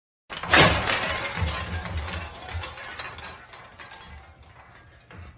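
A sudden crash about half a second in, followed by clattering and rattling that dies away over about four seconds.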